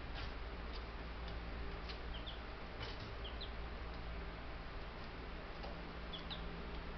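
Baby Buff Brahma chicks giving a few short, high peeps among irregular light ticks, over a steady low hum.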